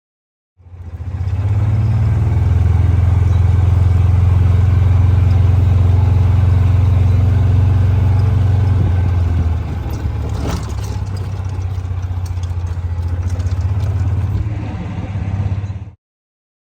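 A motor vehicle running with a steady low drone. The drone eases off a little partway through, and a single sharp knock comes just after.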